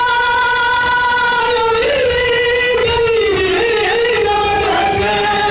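A solo singing voice holds one long high note for about two seconds, then bends and ornaments the melody in wavering runs, sinking lower near the end.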